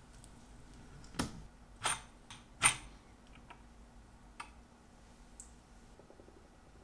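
Screw-down watch case back being unscrewed with a case-back wrench: three sharp metallic clicks about a second apart, the last the loudest, as the tool grips and the back breaks loose. Then a few faint small ticks as the loosened case back is handled and lifted off.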